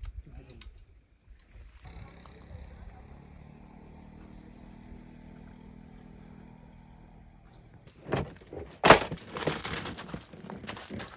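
Packaging and the metal parts of a fire pit being handled and unboxed: irregular rustling and clattering that starts loud about eight seconds in. Before that only a faint, steady high-pitched drone is heard.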